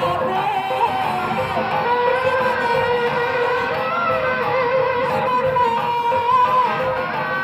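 Live benjang accompaniment music: a held, wavering melody line over steady percussion.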